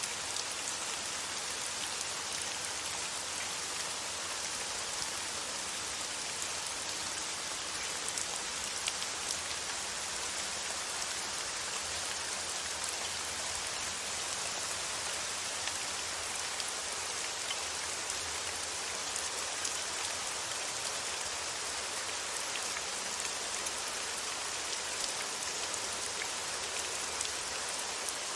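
Steady rain falling, an even hiss with scattered small drop ticks, used as soothing rain white noise.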